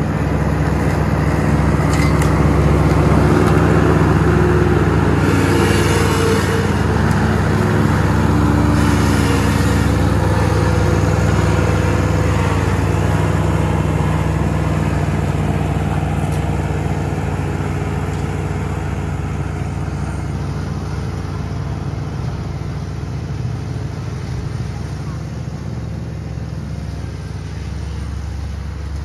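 John Deere Z320R zero-turn mower engine running steadily under mowing load. It grows louder over the first few seconds, then slowly fades as the mower moves away.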